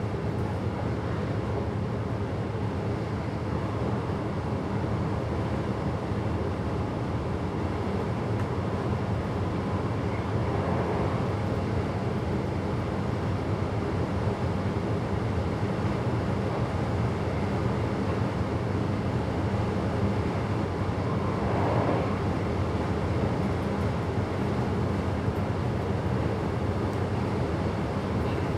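Steady running noise of a train heard from inside the driver's cab, a constant rumble with a low hum, and two faint brief rises partway through.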